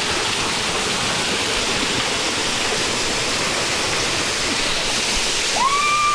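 Waterfall pouring steadily, a dense, even rush of falling water. Near the end a short, high call rises and then holds its pitch.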